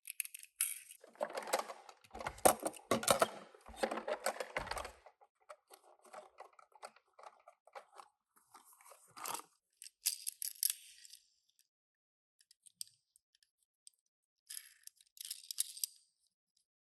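Toy packaging being handled: cardboard and plastic crackling and tearing for the first five seconds, then scattered small clicks and short rustles as a die-cast minicar is handled.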